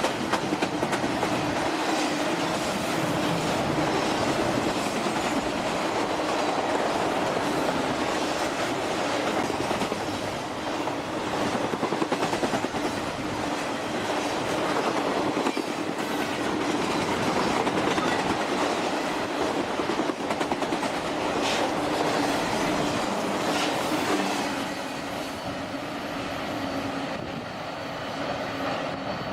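Train rolling past, its wheels clicking steadily over the rail joints, the sound easing somewhat near the end.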